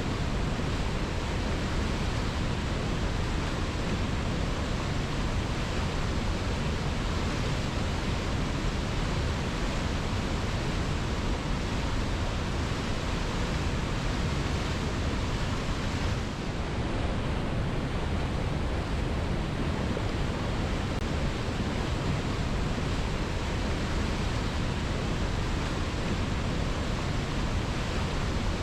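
Waterfall: water pouring down onto rock and into a pool, a steady, even rush with a brief slight dip about halfway through.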